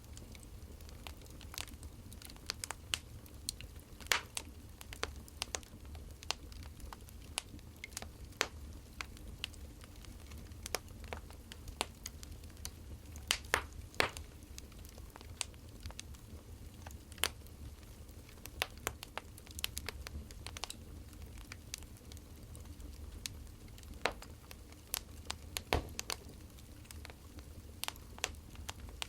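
Burning firewood crackling: irregular sharp pops and snaps, several louder than the rest, over a low steady rumble.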